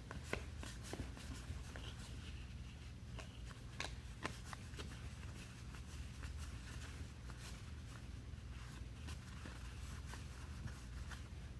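Trading cards being handled and flipped through, with faint scattered clicks and soft rustles over a low steady hum.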